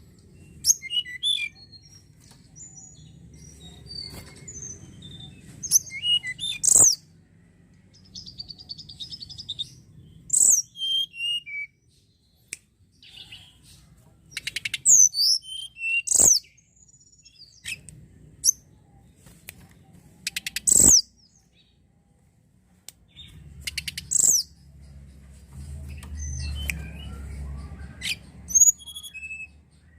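Tledekan gunung (a mountain flowerpecker) singing a lively run of short, high, sharp chirps, with a fast buzzy trill about nine seconds in. A few sharp clicks and a low background rumble come and go.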